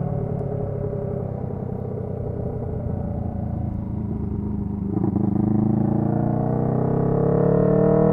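Honda CB125T's 125 cc parallel-twin engine running through its loud silencer while riding. The engine speeds up about five seconds in, getting louder and rising in pitch.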